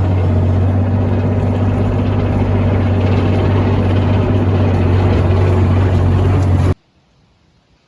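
Engine running steadily at a constant speed with a strong low hum, which cuts off abruptly near the end.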